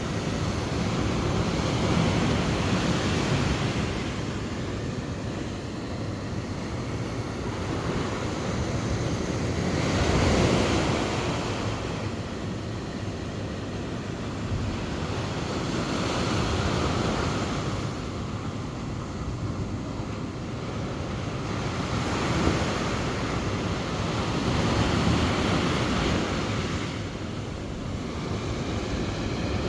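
Ocean surf: waves washing in, the noise swelling and fading every several seconds, with wind buffeting the microphone.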